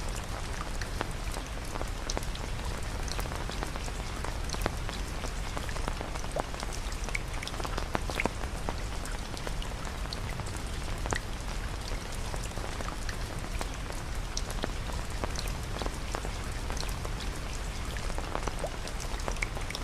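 Steady rain falling, an even hiss with many small drops ticking here and there.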